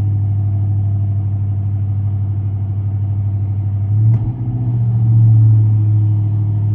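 Chevrolet Silverado 1500's 5.3-litre V8 through Tunnel Ram true dual exhaust mufflers, idling with a steady low rumble. About four seconds in it gets a light blip of the throttle and rises briefly before easing back.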